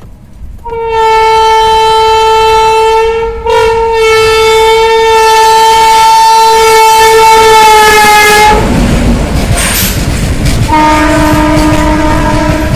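Horn of a WAG-9 electric freight locomotive sounding a short blast and then a long one, followed by the noise of the freight train running past. A lower horn note comes in near the end.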